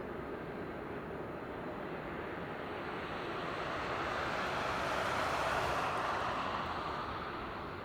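Jet noise from an Airbus A321neo airliner on its landing approach, swelling to its loudest about five seconds in as it passes, then fading.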